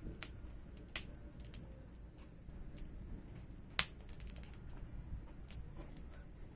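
Firewood crackling in a campfire: irregular sharp pops, the loudest about four seconds in, over a low steady background.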